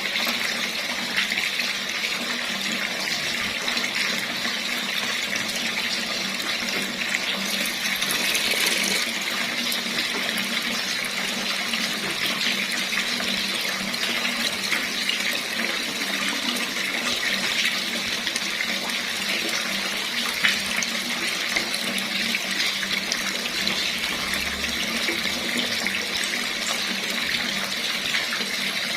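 Water running steadily from a tap, a continuous splashing hiss with a slight surge about eight seconds in.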